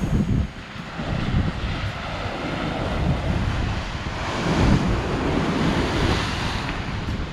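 Wind buffeting the microphone over a rushing wash of water that swells about four seconds in and then eases, like surf breaking.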